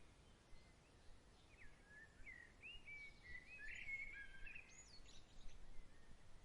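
Faint bird song: a quick run of short whistled notes that sweep up and down, clustered in the middle of the stretch, over a soft steady background hiss.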